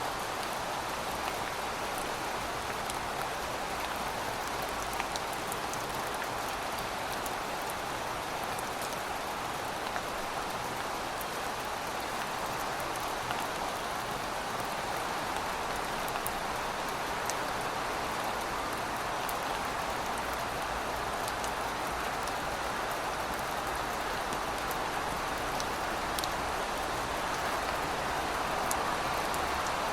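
Steady rain falling on pavement: an even hiss with scattered separate drops ticking through it.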